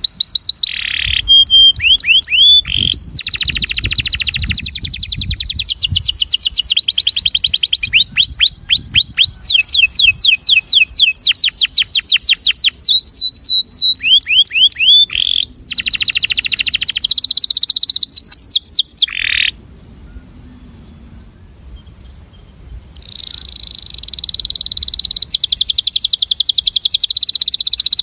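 Male canary singing in long runs of rapid repeated trills, switching from one trill to another, a song that attracts a female. It breaks off for a few seconds about two-thirds of the way through, then starts trilling again.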